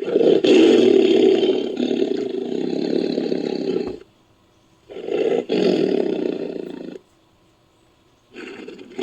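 Bengal tiger roaring: three rough, drawn-out roars. The first lasts about four seconds, the second about two seconds, and the third begins near the end. Each cuts off abruptly, as in an edited sound-effect recording.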